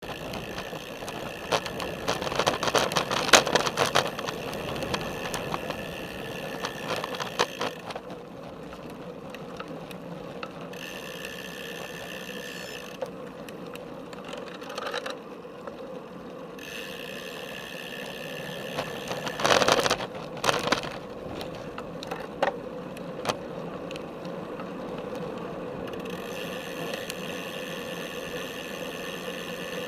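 Road bike being ridden, heard through a camera strapped to its top tube: steady tyre and drivetrain rolling noise with the frame and mount rattling, and clusters of sharp knocks and rattles at about two to four seconds in and again at about twenty seconds in.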